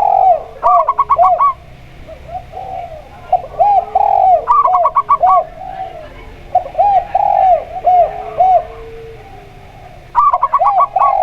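Zebra dove and spotted dove cooing, in repeated phrases of bouncing coo notes with quick runs of higher notes. The bouts come about every three seconds.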